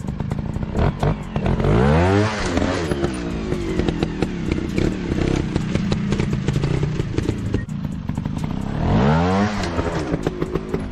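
Trail motorcycle engine running, revved hard twice, the pitch climbing steeply and dropping back each time, about two seconds in and again near the end. Short clattering knocks and clicks run throughout.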